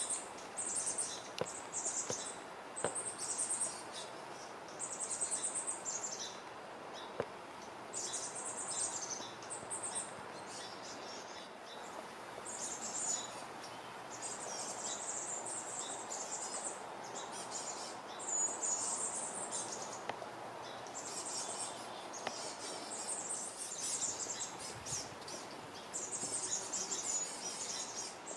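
Small birds chirping in short, high, trilled phrases that recur every second or two, over a steady background hiss of forest ambience.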